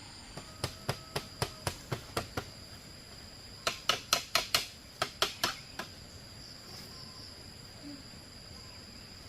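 Hammer blows in two quick runs, about four a second: some eight strikes, a short pause, then a louder run of about nine. A steady high insect trill runs underneath.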